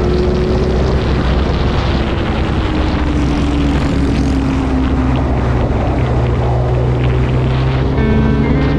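Kawasaki Ninja H2 motorcycle's supercharged inline-four running at a steady cruise, its drone dipping a little in pitch midway and picking up again, under a heavy rush of wind noise.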